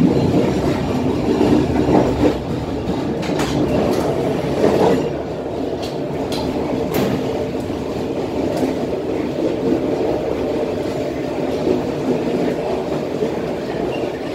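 Passenger train carriages running at about 40 km/h, a steady rumble of steel wheels on rails heard from the rear of the train. A few sharp clacks come in the middle as the wheels pass over rail joints, and the rumble eases a little after about five seconds.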